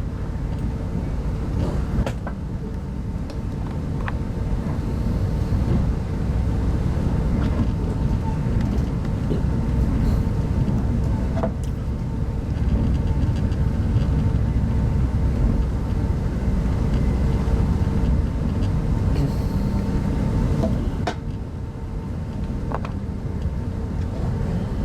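Inside an RZ25T soft-seat passenger coach of a through train running along the line: a steady low rumble of wheels on track with a constant hum, and a few faint clicks.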